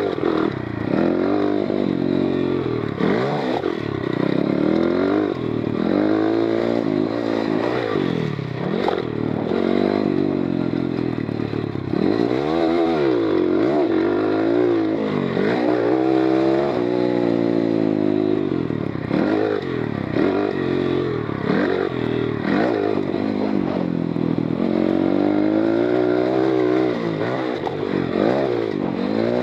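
GIO X33 140cc pit bike's oil-cooled single-cylinder four-stroke engine, ridden hard: it revs up and falls off again and again, its pitch rising and dropping every second or few as the throttle is opened and closed.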